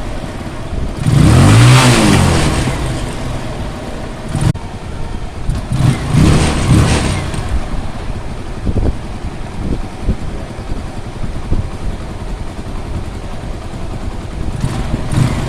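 Motorcycle engine blipped twice, the revs rising and falling back about a second in and again around six seconds, then idling unevenly with a few brief sharp sounds. The running is tied to a choked secondary air injection (SAI) unit.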